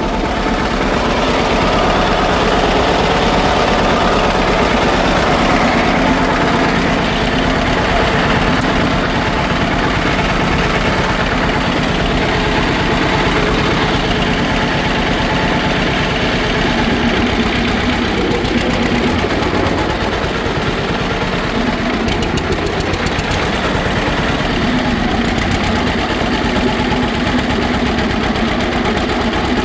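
Model B tractor engine running steadily with a close, even run of firing pulses, a little louder for the first several seconds. The engine has just been brought back to running after sitting and still needs a tune-up.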